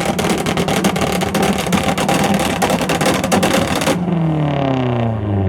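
Car engine held at steady high revs with a rapid, dense crackle of pops, then the revs drop away about four seconds in.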